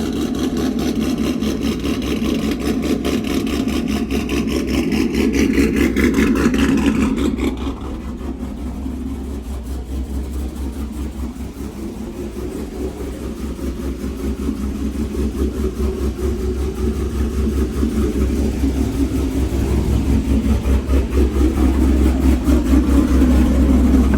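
Pickup truck's engine running, a steady pulsing rumble; the sound is brighter for the first seven seconds or so, then settles and grows louder again toward the end.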